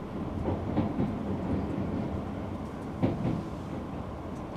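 Electric train running at speed, heard from inside the carriage: a steady low rumble with several sharp clunks as the wheels pass over rail joints and points. The loudest clunks come about a second in and again about three seconds in.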